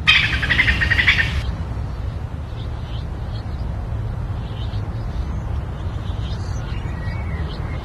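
A loud rasping burst for the first second and a half, then faint, scattered bird chirps over a steady low rumble.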